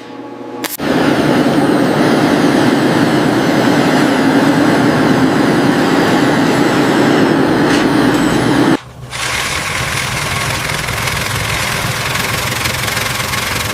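Steady mechanical running noise in two stretches, with a brief break about nine seconds in; the second stretch carries a faint steady hum.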